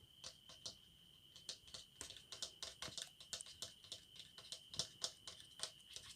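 Light, irregular tapping and clicking on a plastic hair dryer, several sharp taps a second, some louder than others, over a faint steady high-pitched whine. The dryer is not running.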